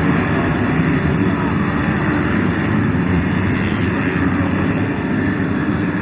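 Engines of many motocross bikes running together during a race, a loud, steady, dense din without pauses.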